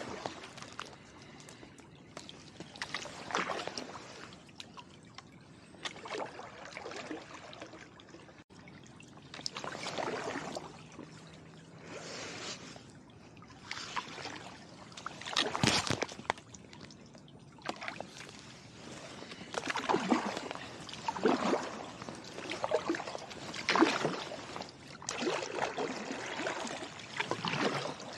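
Kayak paddle strokes in the water, a splash and trickle of dripping water with each stroke, coming irregularly every second or two. One sharp knock about halfway through.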